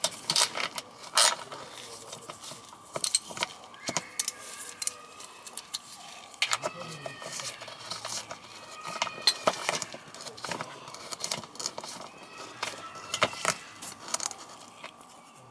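Irregular metallic clicks and clinks of a socket wrench working on a 10 mm bolt, with a faint steady hum underneath.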